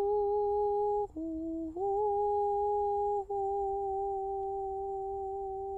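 A woman humming long held notes: one pitch, then a lower note for under a second about a second in, then back up to the first pitch and held.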